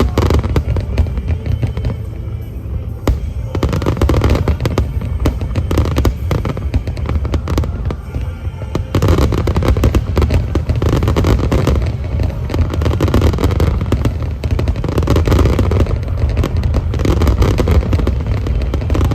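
Aerial fireworks bursting in quick succession: a dense run of booms and crackles over a continuous low rumble.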